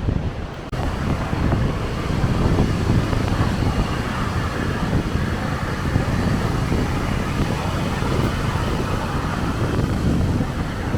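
Strong wind buffeting the microphone, with the rush of rough, stormy sea behind it.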